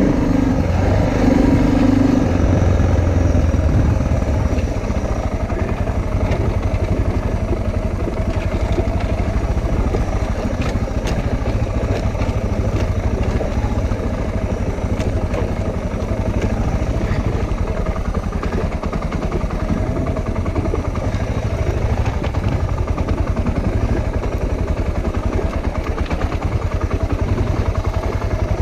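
Motorcycle engine running steadily under way, with a louder stretch in the first few seconds.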